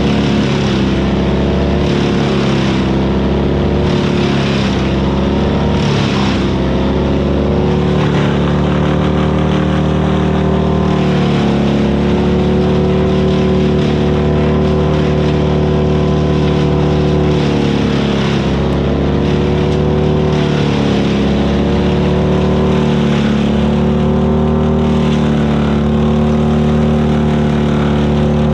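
Vermeer BC1000XL gas wood chipper running hard, its engine pitch sagging and recovering several times as it takes load from wood being chipped.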